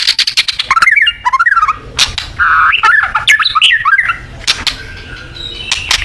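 White-rumped shama singing a fast, varied phrase. It opens with a rapid run of clicks, then a jumble of quick whistled slurs and a harsh buzzy note, and ends with a few sparse clicks and short level whistles.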